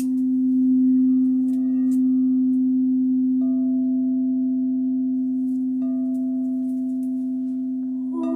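Crystal singing bowls holding one steady low ringing tone, with faint higher tones entering twice partway through.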